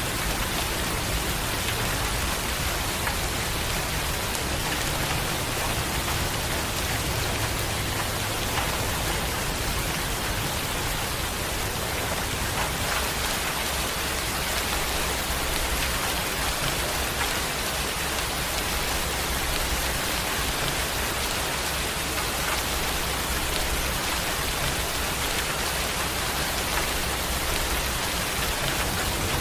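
Steady heavy rain falling on a surface, a continuous hiss with many small drop impacts and a low rumble underneath.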